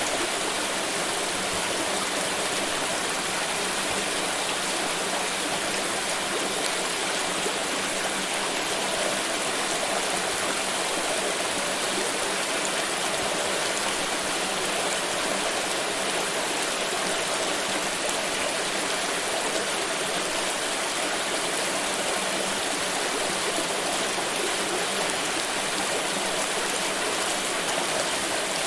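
Water pouring in a continuous, steady rush of splashing, with no change in strength.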